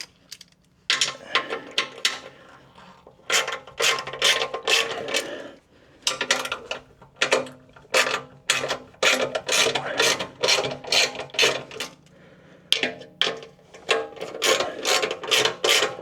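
Ratchet wrench with a 10mm socket clicking in quick runs as it is swung back and forth, loosening a bolt, with short pauses between runs.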